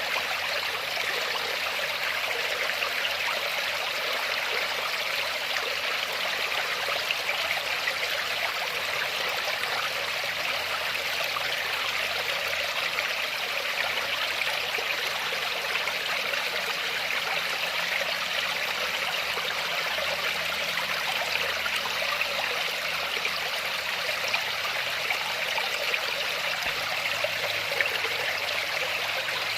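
Waterfall running steadily: an even rushing splash of falling water, bright rather than deep, with no breaks.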